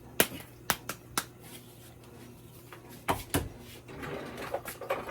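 Kitchen handling noises: three sharp clicks in the first second and a half, then a louder clatter of knocks about three seconds in, over a faint steady hum.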